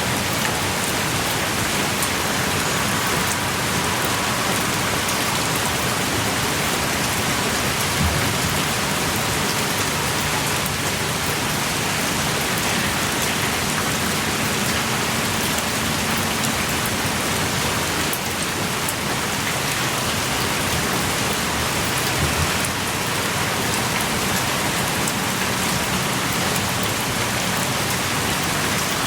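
Heavy rain pouring steadily, with scattered individual drops landing close by.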